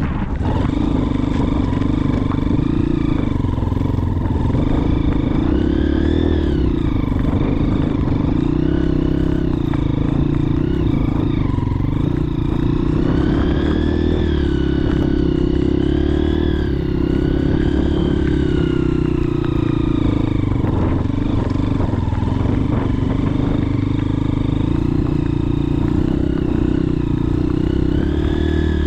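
Motorcycle engine running continuously, its pitch drifting up and down with the throttle.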